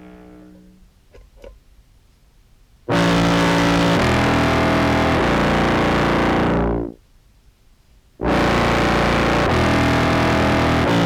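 Contrabass clarinet played through an EHX POG2 octave pedal set two octaves down into a Behringer Brassmaster fuzz: two loud, heavily distorted phrases of about four seconds each, the pitch stepping between a few notes. Each phrase breaks off quickly.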